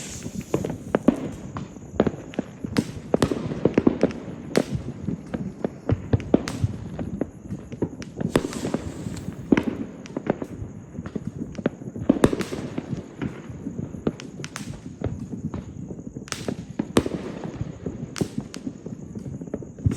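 Fireworks going off: a continuous, irregular barrage of bangs and crackles, with sharper reports every second or so.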